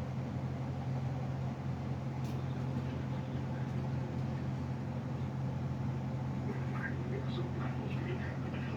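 A steady low mechanical hum runs throughout, with a few faint short rustles near the end.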